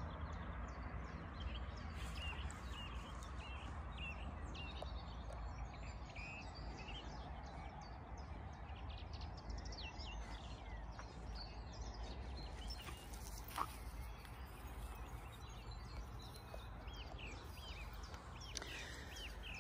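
Small birds chirping and calling repeatedly in short, quick notes over a steady low background rumble, with one sharp click about two-thirds of the way through.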